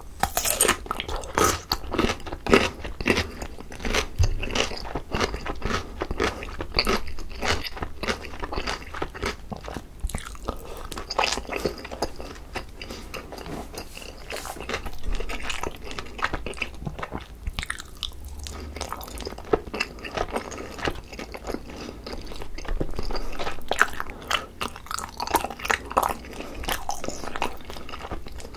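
A person chewing food close to the microphones, with crisp crunching bites. The crunching is densest in the first few seconds and again near the end.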